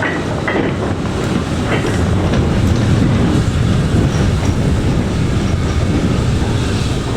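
Steam-hauled goods train of wagons rolling by, wheels rumbling steadily on the track, with a few sharp clicks over the rail joints in the first couple of seconds.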